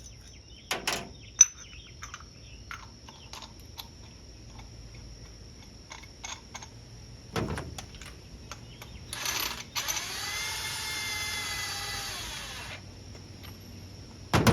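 Power drill running for about three seconds, its motor pitch rising and then falling, with scattered clicks and knocks of tools and metal parts being handled.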